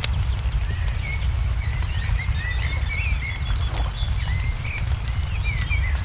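Wood fire crackling with scattered sharp pops over a steady low rumble, while small birds chirp over and over in short rising and falling notes.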